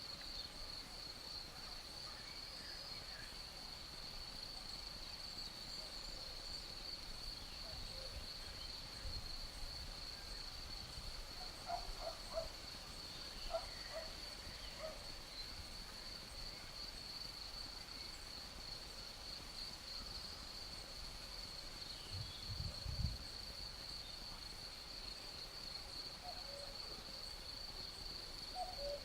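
Crickets chirring in a steady high trill, with a cuckoo giving its two-note call a few times about twelve to fourteen seconds in and again near the end. A brief low gust of breeze about two thirds of the way through.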